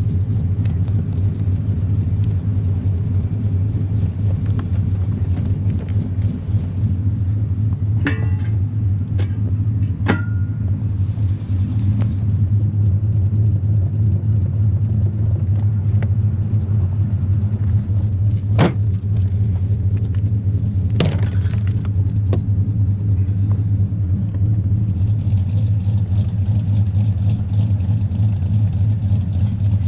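Chevrolet Silverado pickup's engine running steadily with an even low hum, with a few sharp clicks and knocks at intervals.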